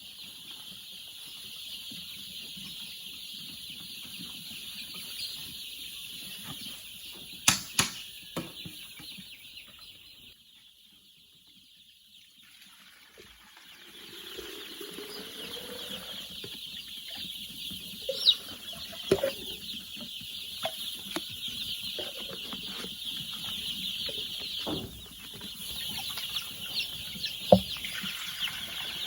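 A flock of chickens clucking, with wings flapping and a few sharp knocks, over a steady high-pitched chirring that drops away for a few seconds near the middle.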